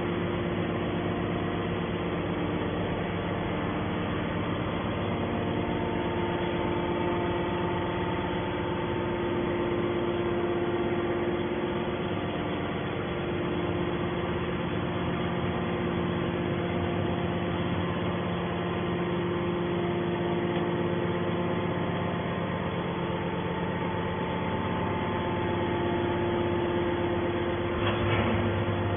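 Hydraulic scrap-metal baler running: a steady, even machine hum with several held tones, from its motor and hydraulic pump.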